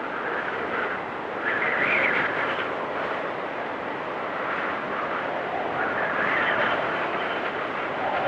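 Wind storm blowing in gusts, swelling about a second and a half in and again around six seconds, with a faint high whistle near the end.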